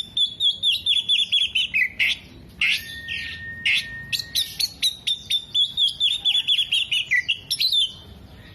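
Oriental magpie-robin (kacer) in full song: rapid runs of short, sharp, falling high-pitched chirps, with one long level whistle held for about two seconds near the middle. The song is of the kind in which a trained kacer mixes in mimicked calls of other birds.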